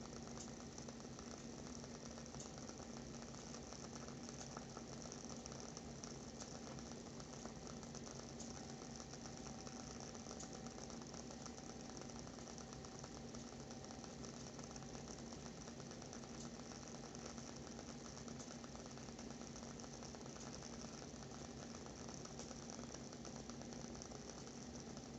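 Wooden wick of a WoodWick candle burning with a soft, continuous crackle of many tiny irregular pops, over a faint steady hum.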